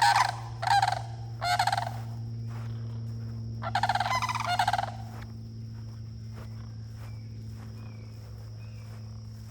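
Sandhill cranes calling: a few short calls in the first two seconds, then a longer call about four seconds in. A steady high insect buzz runs underneath.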